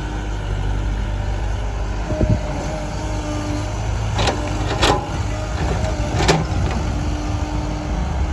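Heavy diesel machinery running steadily, with four sharp knocks about two, four, five and six seconds in.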